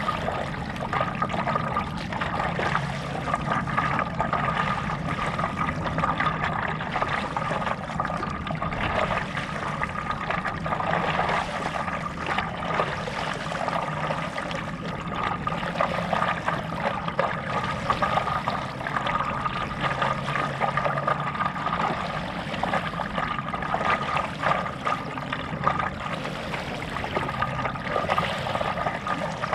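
Water trickling and splashing from a stand-up paddle stroking through lake water, with a steady high-pitched tone running underneath.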